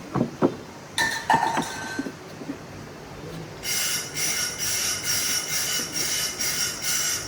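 A few sharp knocks and ringing metallic clinks from handling tools or parts. Then, a little under four seconds in, a power tool starts and runs with a pulsing, high-pitched hiss that swells about three times a second.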